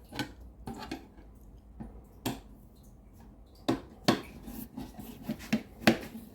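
Screws being taken out of a refrigerator's PCB cover: irregular sharp clicks and light scraping of the screwdriver and screws, a few seconds apart.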